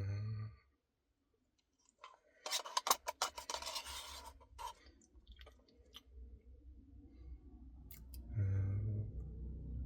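A couple of seconds of dense scratchy clicking and crinkling, then a man's low, steady closed-mouth hum near the end, amid eating sounds.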